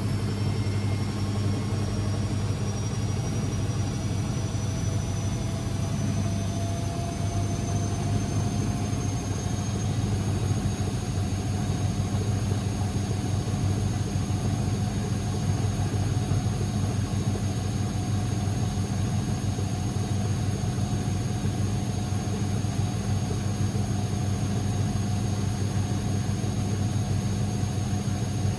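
Constructa Energy 1000s washing machine spinning its drum at speed: a steady hum with a motor whine that rises slightly in pitch over the first several seconds, then holds steady.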